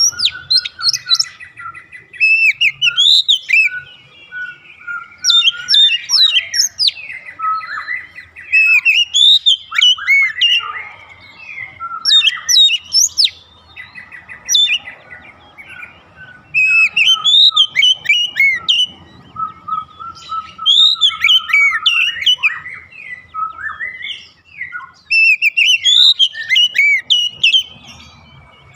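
Oriental magpie-robin (kacer) singing: loud bursts of varied, rapidly rising and falling whistled and chattering phrases come about every two to four seconds, with softer drawn-out whistles between them.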